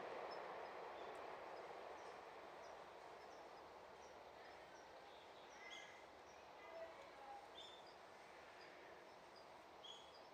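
Near silence: faint outdoor background noise with scattered small bird chirps.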